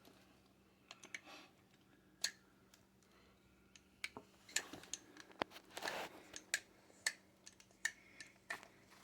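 Scattered clicks, taps and short scrapes of metal parts being handled as a failed Honda Odyssey CV joint is taken apart, sparse at first and busier from about four seconds in.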